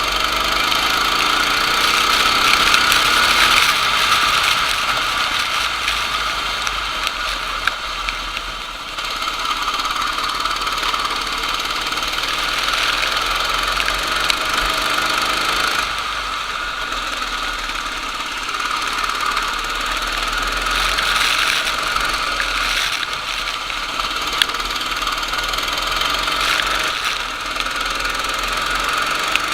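Racing kart engine running hard, its pitch rising in sweeps as it accelerates out of corners, over a steady hiss.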